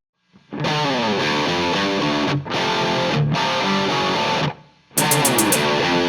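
Electric guitar, a Gibson Les Paul Custom played through a Mooer GE300 into an EVH 5150 III amp and a miked 2x12 cabinet, playing a phrase with falling runs. It stops about four and a half seconds in and starts again half a second later.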